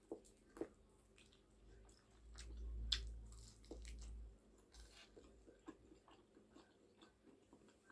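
Faint close-up eating sounds: a person biting and chewing, with scattered small wet clicks and crunches, a sharper click about three seconds in, and a low rumble from about two to four and a half seconds in.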